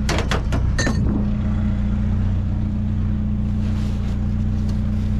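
Vehicle engine idling with a steady hum, with a quick run of clinks and rattles in the first second as scrap pieces are handled in a dumpster.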